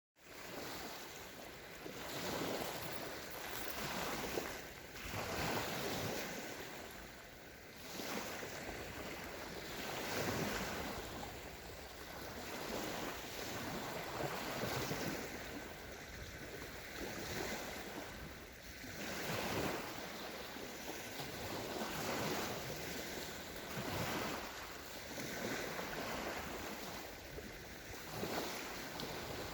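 Small sea waves breaking on a sandy shore, the surf swelling and washing back every two to three seconds, with some wind on the microphone.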